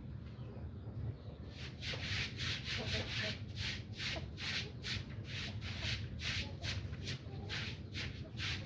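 Rhythmic scraping or rubbing strokes, about two to three a second, starting about a second and a half in, over a low steady hum.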